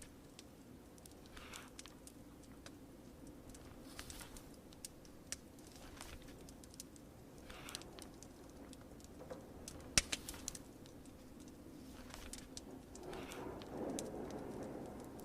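Wood fire crackling with scattered sharp pops, the loudest about ten seconds in, over a steady bed of rain. Now and then a soft paper rustle of a book page being turned, the fullest one near the end.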